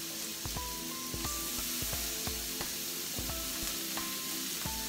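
Jumbo scallops searing in olive oil in a hot cast-iron skillet, a steady sizzle that shows the pan is hot enough for a good sear. Music with held notes and a steady beat plays along with it.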